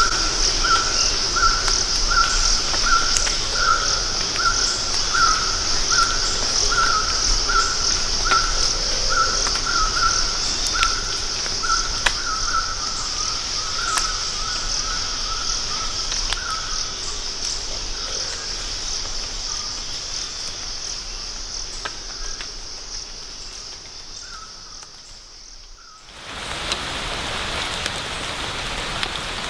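Rainforest insects keep up a steady high-pitched drone while a barbet calls a long series of evenly spaced notes, just under two a second, that fades out after about seventeen seconds. Near the end the sound cuts to a steady hiss of rain.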